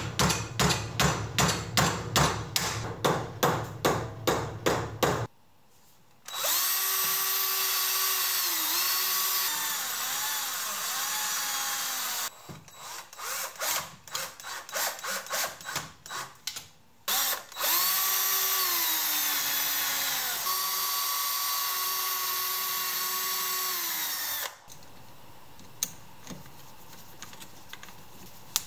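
Power drill running in two long runs with a steady whine that dips in pitch as it bites into wood, each run preceded by a few seconds of quick, rhythmic strokes.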